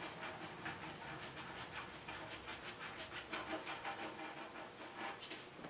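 Ratchet wrench clicking in an irregular run of small ticks, a few a second, while oil pan bolts are backed out.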